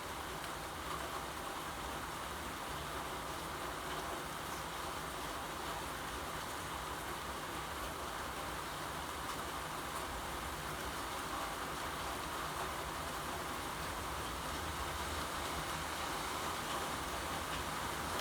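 Steady rain falling, an even hiss with a few faint drop ticks, over a low rumble that grows slightly louder toward the end.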